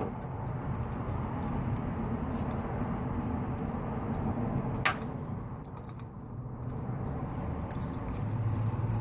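Light metallic clicking and clinking of small hand tools on the parts of a Novarossi .28 nitro model engine being taken apart, with one sharper click about five seconds in, over a steady low hum.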